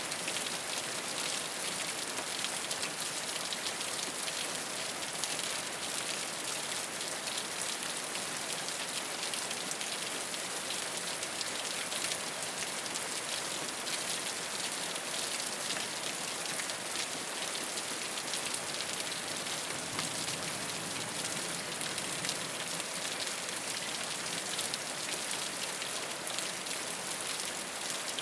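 Steady rain falling on a rooftop: a dense, even hiss of countless small drop hits, bright in tone, with no change in strength.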